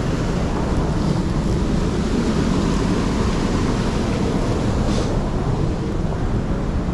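Steady rushing of water in a mountain stream, an even low noise that does not change.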